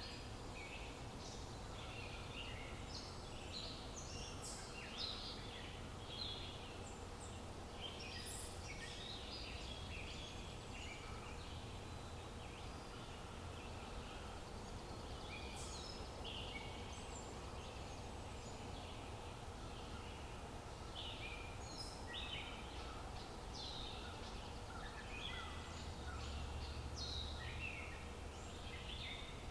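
Several songbirds chirping and twittering in short, overlapping calls over a steady low background rumble of outdoor ambience.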